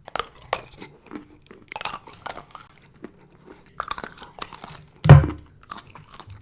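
Close-miked chewing and crunching of chocolate, with irregular crackles and one loud crunch about five seconds in.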